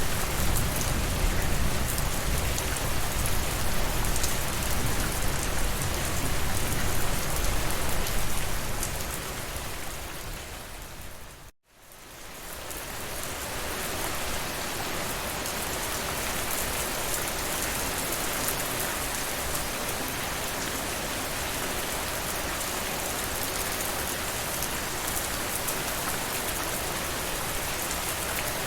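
Steady rainfall. About eleven seconds in it fades out to a brief moment of silence and fades back in, steadier and with less low rumble afterwards.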